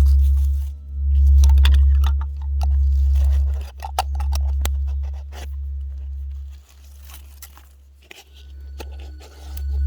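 Heavy low rumble of wind buffeting the microphone, swelling and fading every second or two and dying down for a moment about seven seconds in, with scattered crunches and snaps over it.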